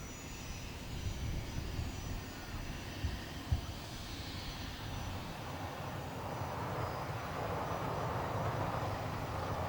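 Business jet's turbofan engines running up for takeoff: a faint high whine over a broad rush that grows gradually louder from about halfway through. Two soft thumps come about three seconds in.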